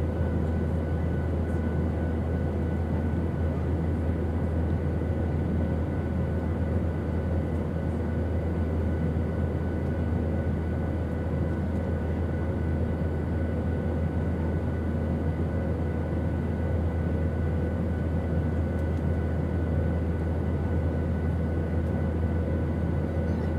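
Airplane engine noise: a steady, unchanging drone with a deep hum and a few faint steady whining tones above it.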